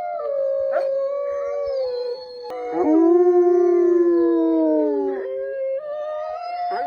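Wolves howling: a long howl that slowly glides down in pitch, joined about two and a half seconds in by a second, lower howl, the two voices overlapping before cutting off abruptly.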